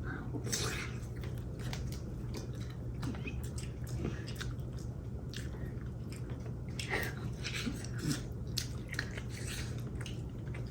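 Close-up eating sounds of seafood-boil food being bitten and chewed, with many short, sharp clicks scattered throughout over a steady low hum.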